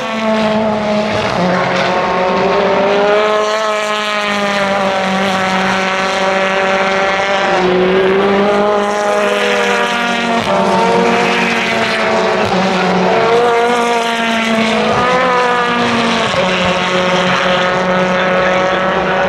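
Racing car engines at high revs, pitch climbing and falling again and again as the cars change gear and go by, loud and continuous.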